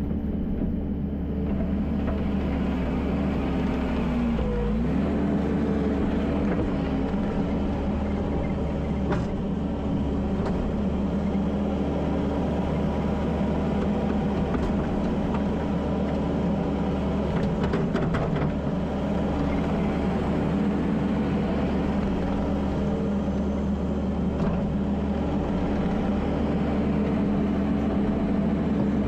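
Kubota SVL75-2 compact track loader's diesel engine running steadily at working revs while it moves dirt. The pitch sags briefly about four seconds in as the engine takes a load, then recovers. A few knocks from the machine come through around the middle.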